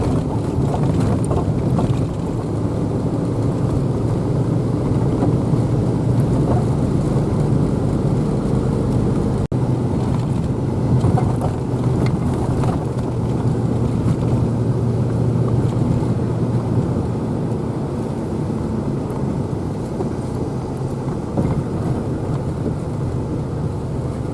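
A vehicle's engine running steadily while driving, with tyre and road noise from a wet, muddy road.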